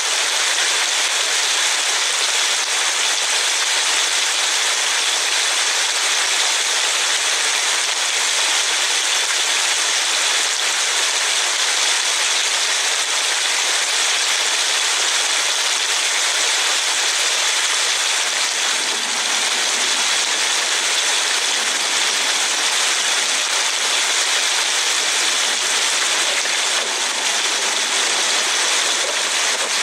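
Steady hiss of rain and tyres on a wet road, heard from inside a slowly moving car.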